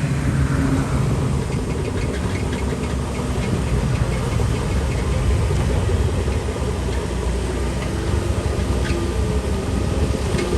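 A bulldozer's heavy diesel engine runs steadily, with a whine that falls in pitch in the first second and scattered metallic clanks and knocks, typical of tracks and stone.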